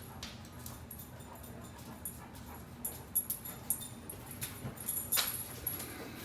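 A dog moving about, with clicking and jingling from about three seconds in, over a low steady hum.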